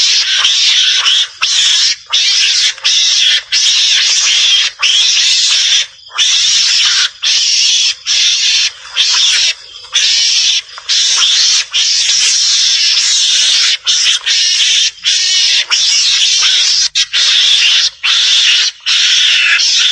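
Javan mongoose calls: harsh, hissing chatter repeated almost without pause, in bouts of about half a second to a second and a half with brief breaks. This is a recorded mongoose call played as a hunting lure to draw mongooses out of cover.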